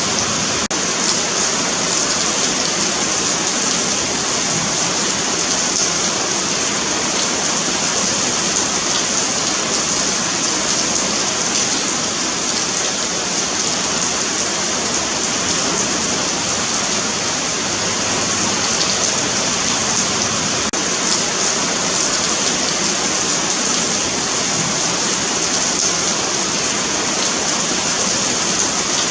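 Steady rain falling on a paved sidewalk, a continuous hiss of drops with no breaks.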